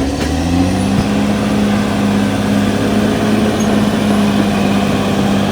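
Cat D6R XL bulldozer's diesel engine running loud, its revs climbing near the start and then holding steady under work.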